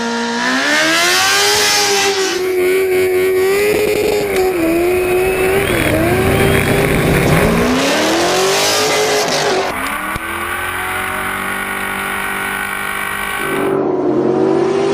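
A drifting vehicle's engine running hard, its pitch climbing and dropping repeatedly as the throttle is worked. Two bursts of hissing noise come in near the start and about eight seconds in.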